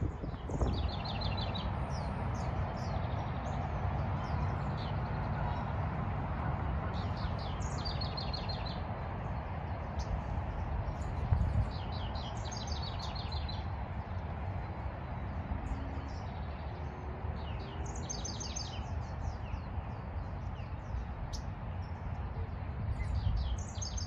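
Songbirds chirping, one of them repeating a short song of rapid high notes about every five seconds, over a steady low background noise.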